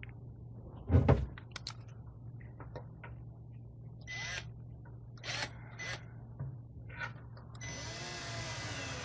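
Cordless drill running in a few short bursts, then a longer run near the end, as a hole is drilled and a screw started for a light fitting; a single knock about a second in.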